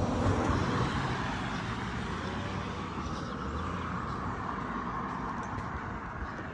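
Vehicle driving on a road: steady engine rumble and tyre noise, loudest just after the start and easing off a little.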